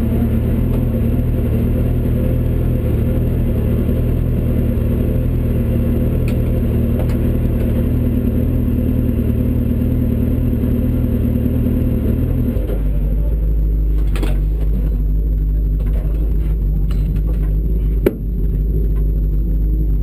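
Trabant 750 GSX-R slalom car's engine idling steadily, its note dropping lower a little over halfway through. Scattered clicks and knocks come in over the idle, with one sharp knock near the end.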